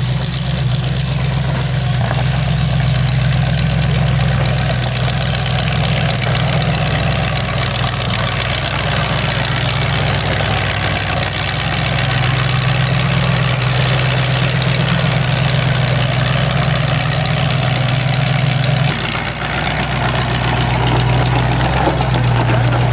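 Demolition derby car's engine idling loudly and steadily, with a brief dip in level late on.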